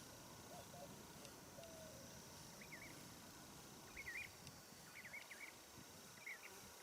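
Faint small-bird chirping over quiet outdoor background: short, wavering calls in little groups, starting a little before the middle and recurring every second or so.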